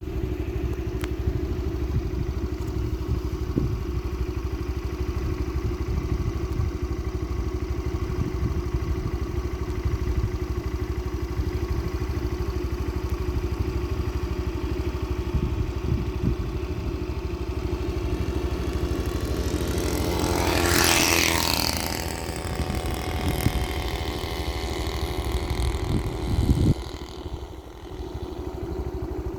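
A vehicle engine running steadily. About twenty seconds in a louder rushing noise swells and fades over a couple of seconds, and a sharp knock comes near the end.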